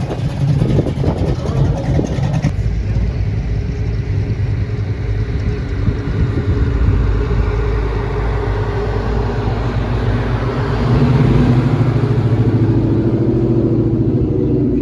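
Classic cars driving past with their engines running; a louder engine comes close about ten seconds in and stays strong to the end.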